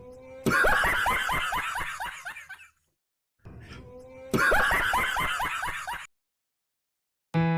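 A burst of rapid snickering laughter, played twice over in identical copies like a looped laugh sound effect. A piano tune starts just at the end.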